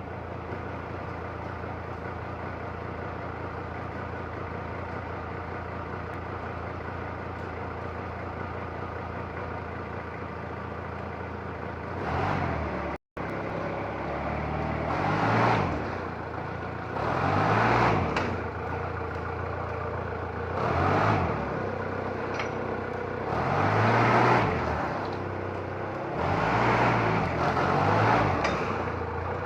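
TCM 2.5-ton forklift engine idling steadily, then, after a brief break about halfway through, revving up and dropping back roughly every three seconds as the forklift is put through a brake test.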